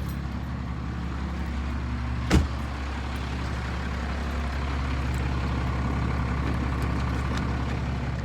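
A 12-valve Cummins inline-six diesel idling steadily, with a low, even hum. A single sharp thump sounds a little over two seconds in.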